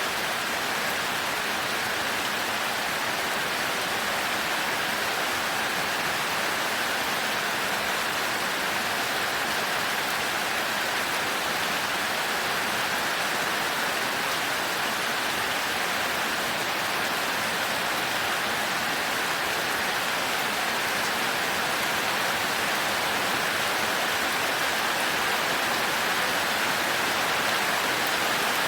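Heavy rain falling on a thatched roof, a steady, even hiss with no thunder.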